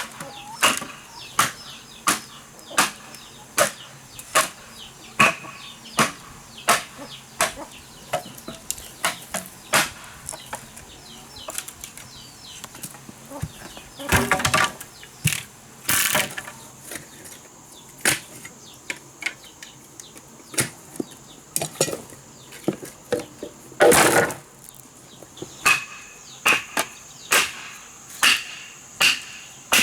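Wood being chopped with a blade in a steady rhythm, a little more than one stroke a second, with two longer, splintering strokes around the middle and about two-thirds of the way through. Chickens cluck faintly between the strokes.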